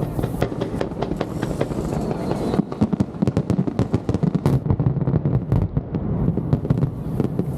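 Wide starmine fireworks barrage: shells launched and bursting in rapid succession, a dense crackle of sharp reports over a rolling rumble, thickest in the middle of the stretch.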